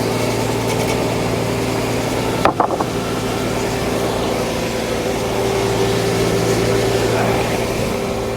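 Frick No. 1 sawmill running steadily, an engine-like drone under a wide noisy hiss, with a brief sharp knock about two and a half seconds in.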